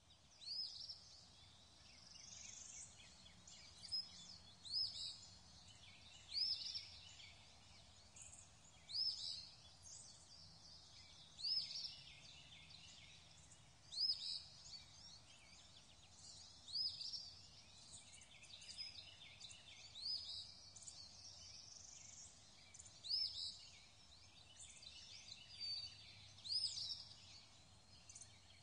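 Faint birdsong: short, high, falling chirps repeating every second or two, with softer twittering between them, over a soft steady hiss.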